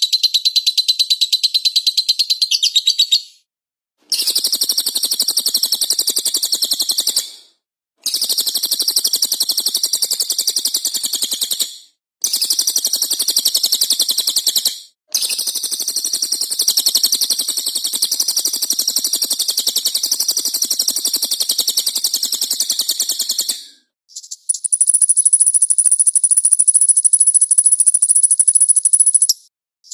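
Recorded songbird chirping and singing in rapid, repeated high notes, edited as a series of clips separated by short silent gaps. Near the end a different bird's song with a sustained high whistle takes over.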